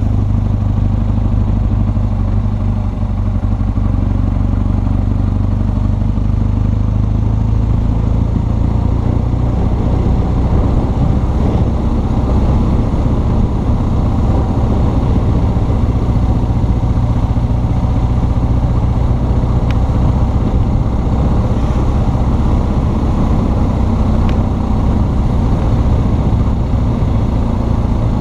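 BMW R1200 GS Adventure's boxer twin engine running steadily under way, heard from the rider's seat along with road noise.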